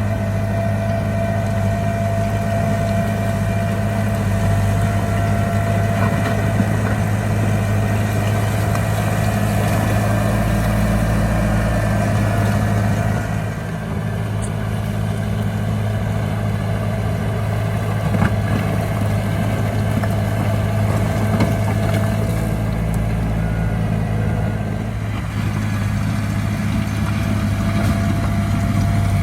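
Heavy diesel earthmoving machinery, a bulldozer working with dump trucks, running steadily at a constant engine speed, with a few light clanks.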